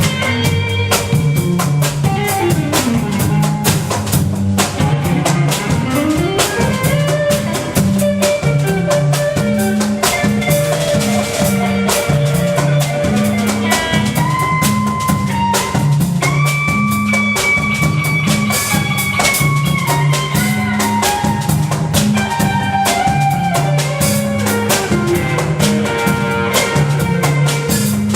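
Instrumental band music with a drum kit keeping a busy beat under a repeating bass line, and a lead line that slides up into long held notes.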